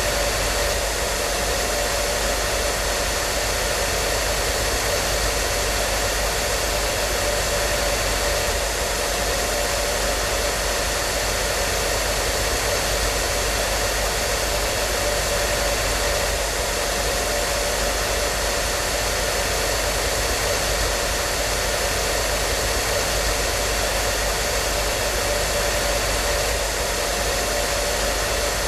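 Hair dryer running steadily: a constant whooshing rush of air with a faint motor hum, unchanging throughout.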